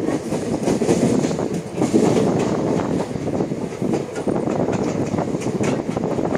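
Train running along the track, heard from aboard: a steady rumble of wheels on rails with frequent sharp clicks as the wheels pass over rail joints.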